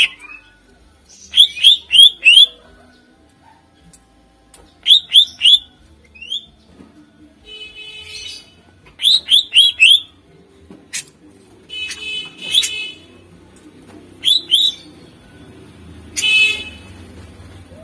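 Green leafbird (cucak ijo) singing loudly: bouts of three or four sharp, quickly gliding whistled notes every few seconds, alternating with raspy, buzzy chattering phrases.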